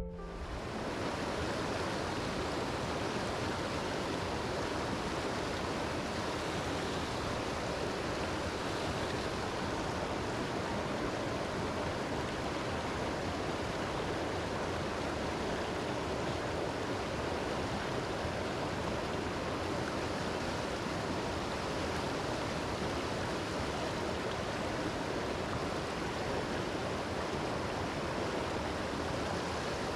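Mountain stream water rushing, a steady even wash of sound.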